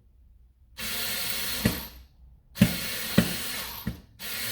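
Electric screwdriver running in three short bursts of about a second each, driving a screw, with a few sharp knocks as the bit catches.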